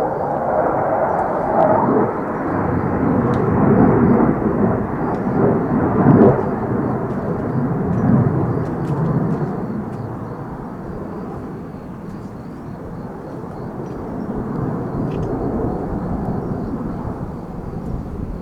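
Military jet aircraft flying past, its engines a loud rumbling roar that dies away over the second half.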